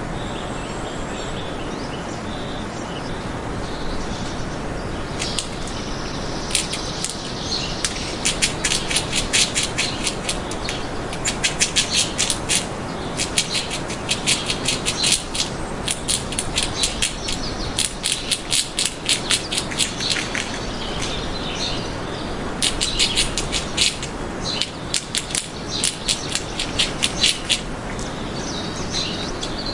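Birds chirping in runs of short, rapid, high-pitched chirps over a steady outdoor background hiss.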